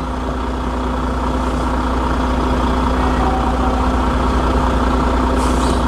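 Vehicle engine running with a steady low hum, heard from inside the cabin and slowly getting a little louder.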